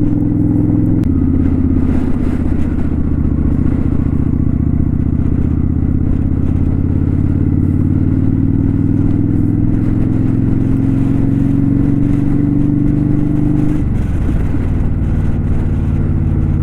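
2018 Kawasaki Vulcan 900 Custom's V-twin engine under way, its note rising slowly for several seconds as the bike gathers speed, then falling away abruptly about three-quarters through and settling at a lower, steady note.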